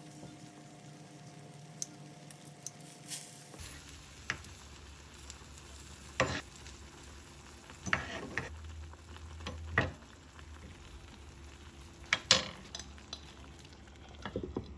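Food sizzling in a frying pan, with a cooking utensil stirring and scraping against the pan, giving sharp clicks every second or two.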